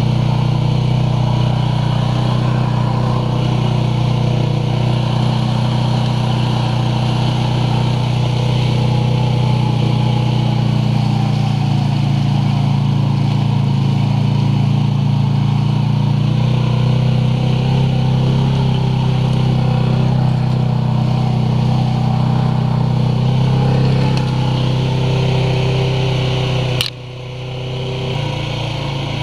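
ATV engine running steadily under way. Near the end it drops off suddenly, then picks up again.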